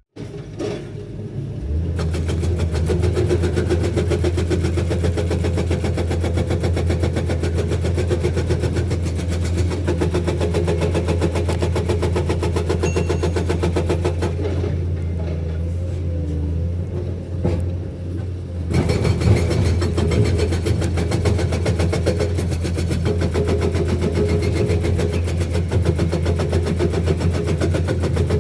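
Komatsu PC210 hydraulic excavator's diesel engine running steadily, settling in about two seconds after a brief near-silent gap, with a deep hum under busier mechanical noise.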